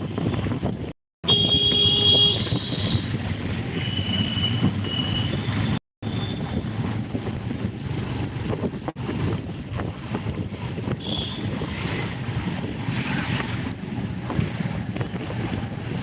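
Wind rumbling on the microphone outdoors, with a few short high chirps near the start; the sound drops out completely twice for a moment.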